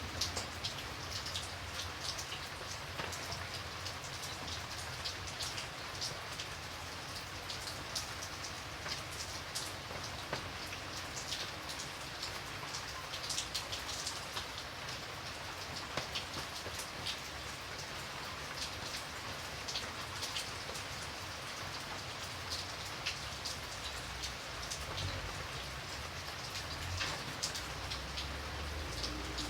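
Steady rain falling, with many individual drops pattering close by over a continuous hiss.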